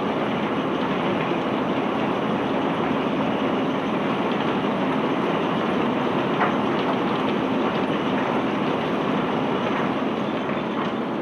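Heavy bulk-cargo unloading machinery running steadily, a constant loud noise with one sharp click about six and a half seconds in.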